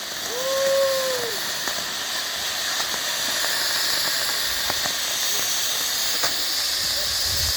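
A lit firework hissing steadily, with a few faint crackles. A short vocal call sounds about half a second in.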